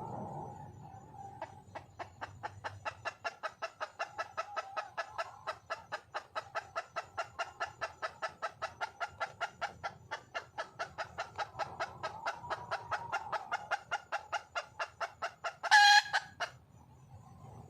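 Wild junglefowl hen clucking in a fast, even series of about five clucks a second, then one short, loud call near the end.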